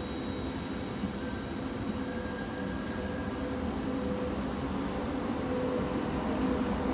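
Intercity Notte passenger train rolling away along the tracks: a steady rumble with a faint low hum running under it.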